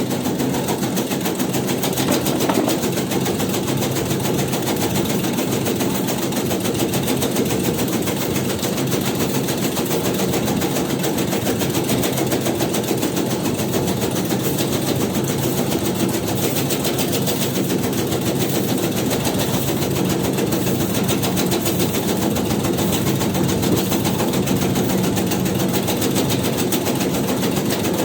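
Motor-driven tobacco-shredding machine (mesin rajang) running steadily, with a fast, even mechanical chatter over a constant hum.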